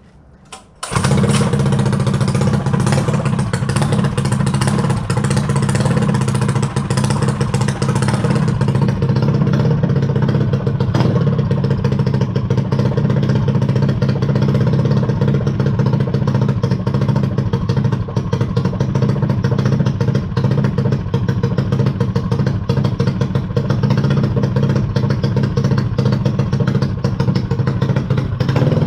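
Mini dirt bike's small engine starting about a second in, then running steadily.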